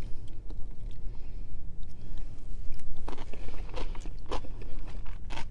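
Close-up chewing of a mouthful of lettuce wrap with crisp romaine leaves. It is fairly quiet at first, then a run of crisp crunches starts about three seconds in.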